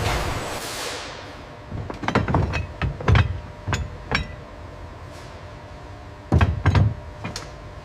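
A hiss fades out over the first second, then come sharp metallic knocks and clanks with heavy thuds in two clusters, the loudest about three seconds in and again about six and a half seconds in.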